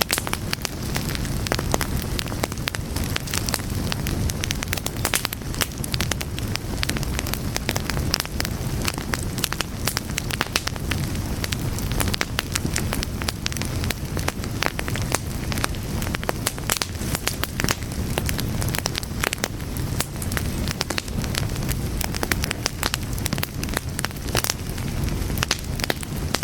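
Fire crackling steadily, with many irregular sharp pops over a low, constant rush of flame.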